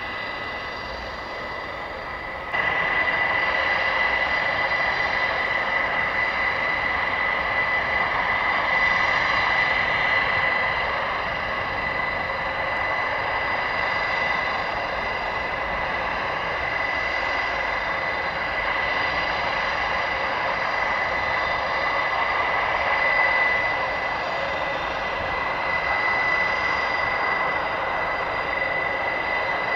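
Airbus A400M's Europrop TP400 turboprop engines running, a steady high whine over a broad rushing noise. The sound jumps louder suddenly about two and a half seconds in and then holds steady.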